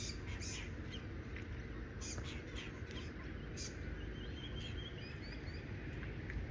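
Birds chirping: a few short, high calls in the first few seconds and a brief trill a little past the middle, over a steady low outdoor rumble.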